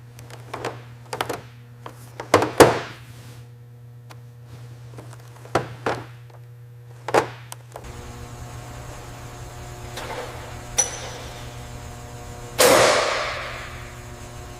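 Tools and metal parts being handled during restoration work: a run of separate knocks and clunks, then a louder clang about two-thirds of the way in that rings out slowly, over a steady low hum.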